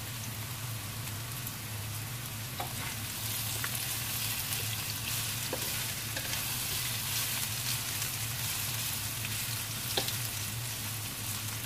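Tempeh pieces sizzling in oil in a wok while a spatula stirs them, with a few light clicks and scrapes of the spatula against the pan. A steady low hum runs underneath.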